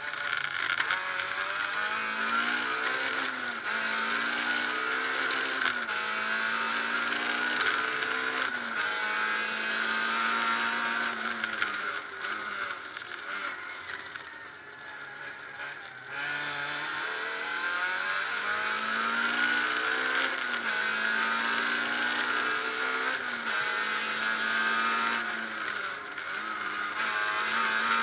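Peugeot 306 rally car's four-cylinder engine heard from inside the cabin, accelerating hard through the gears: the revs climb and drop back at each upshift. About halfway through it goes quieter, with the revs falling as the driver lifts off, then it pulls hard through the gears again.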